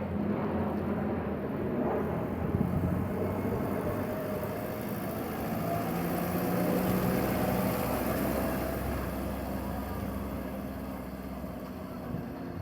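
A car engine running, getting a little louder about halfway through and easing off near the end.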